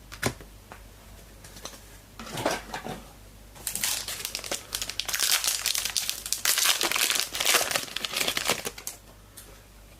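Trading card pack wrapper being opened and crumpled: a few light clicks, a brief rustle about two seconds in, then several seconds of steady crinkling that stops about a second before the end.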